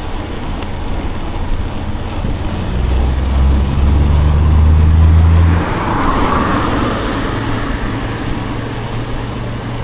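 A motor vehicle passing on the road: a low engine drone builds from about three seconds in and stops short at about five and a half seconds, followed by a swell of tyre and air noise that fades. Steady wind and road noise run underneath.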